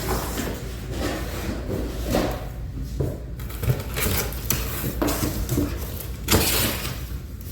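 Unboxing handling noise: packaging rustling, with several light knocks and clatters as parts are lifted out and set down.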